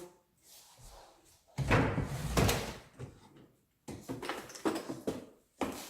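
Handling at a wood-burning fireplace insert: a loud scraping clunk about one and a half seconds in, then softer knocks and a sharp click near the end.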